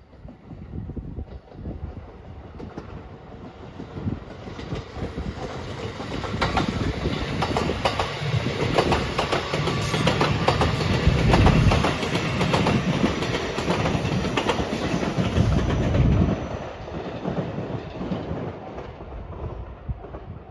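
Rapid Marine Liner electric multiple-unit train passing close by, its wheels clattering over the rail joints. It builds as it approaches, is loudest in the middle, and fades away over the last few seconds.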